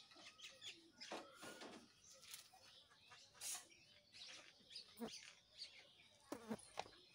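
Faint scattered chirps of birds, short high calls coming and going, with a few soft clicks about five and six and a half seconds in.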